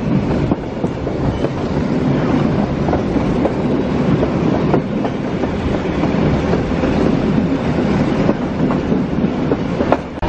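Diesel-hauled heritage passenger train running along the track, heard from inside a carriage: a steady rumble of the wheels on the rails, with clicks now and then as the wheels pass over rail joints.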